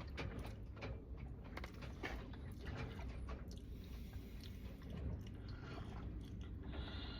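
A person chewing and biting food close to the microphone, with irregular sharp clicks of the food and mouth.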